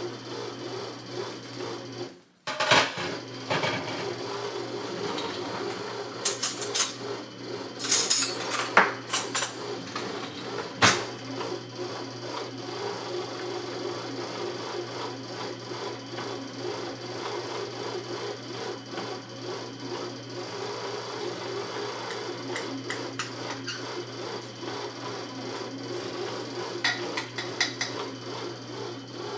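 A steady mechanical hum of a kitchen appliance motor, broken by a short gap about two seconds in. A run of sharp clinks and knocks of kitchen utensils and dishes comes about six to eleven seconds in.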